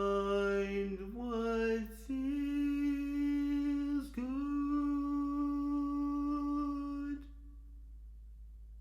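Solo soprano voice singing wordless held notes, unaccompanied: a couple of short notes, then one long steady note with a brief break for breath about four seconds in, ending about seven seconds in.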